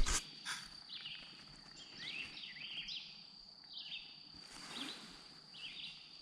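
A songbird singing short chirping phrases over and over, about one a second, over a steady thin high tone. Two sharp knocks come right at the start, and a soft rustle a little before the end.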